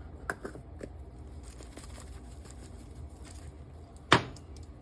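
Soft kitchen handling noises as black pepper is added to a bowl of flour, with a single sharp knock about four seconds in.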